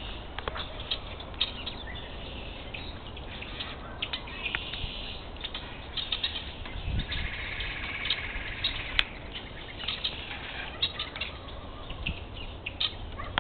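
Several small birds at feeders chirping, many short sharp chirps scattered throughout, with a longer rippling trill from about seven to nine seconds in, over a steady low background rumble.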